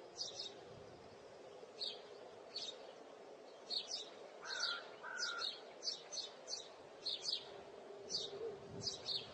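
Birds chirping: many short, high chirps at irregular intervals, with two clearer whistled notes about halfway through, over a faint steady hum.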